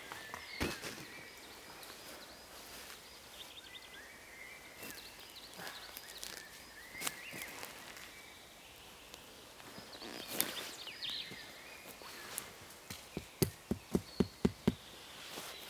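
Forest ambience with birds chirping and scattered rustles and clicks of someone moving about on the forest floor. Near the end comes a quick run of about seven sharp knocks, roughly four a second.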